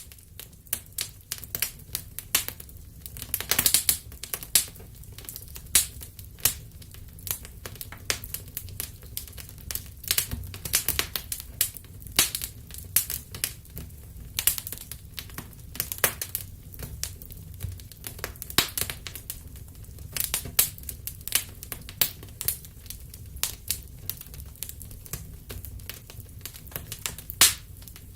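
Wood fire crackling and popping: irregular sharp snaps, several a second with a few louder pops, over a steady low rumble of burning.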